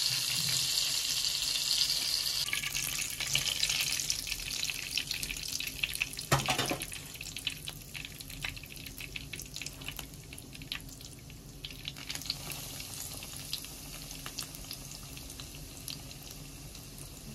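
Breaded chicken patties shallow-frying in oil, sizzling and crackling. The sizzle is loud at first and dies down over several seconds to a light crackle, with a short knock about six seconds in.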